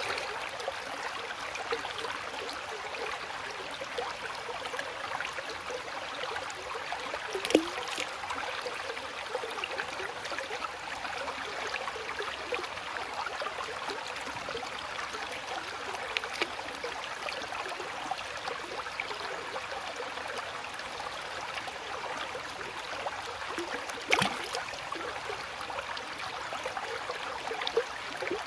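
Small stream of water trickling and burbling steadily, with a louder splash about seven seconds in and another near the end.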